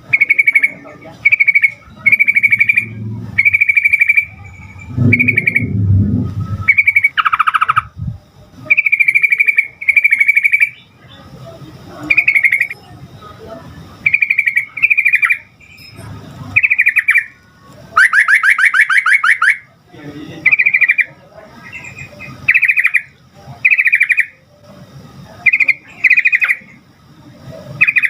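Sooty-headed bulbul giving a rapid series of short, bubbly chirping phrases, about one a second, with one longer, louder phrase about two-thirds of the way in.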